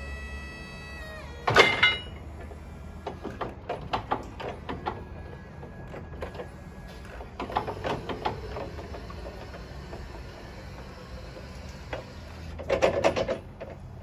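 The CAT 2ETC3500 electric forklift's motor whines, then winds down and stops about a second and a half in with a loud clatter. After that come three spells of metallic clanking and rattling from the machine's moving parts. The loudest spell is near the end.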